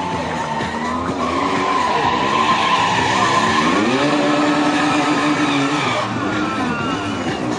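Heavy motorcycle engine revving during stunt riding, its pitch climbing about four seconds in and then holding, with tyres squealing and skidding on pavement.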